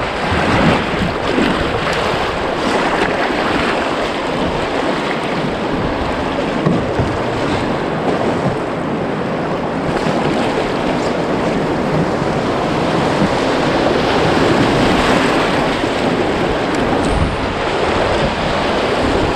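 River whitewater rushing loudly and steadily through a rapid, heard from a canoe running it.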